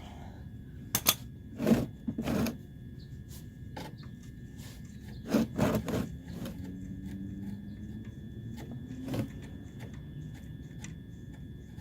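Metal knocks and clicks from a wrench and socket working the oil drain plug loose: a few sharp clacks about a second in and near two seconds, a cluster around five to six seconds, and one more near nine seconds.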